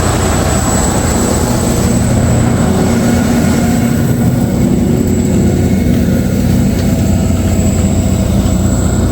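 Kirovets K-700 tractor's turbocharged V8 diesel engine running steadily and loud, with a thin, steady high whistle over the deep engine note.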